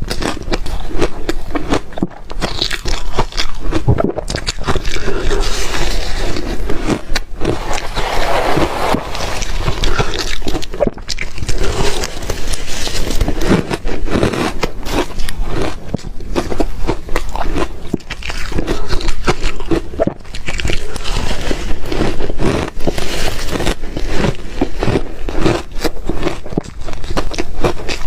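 Ice being bitten and chewed, a continuous run of sharp cracks and crunches.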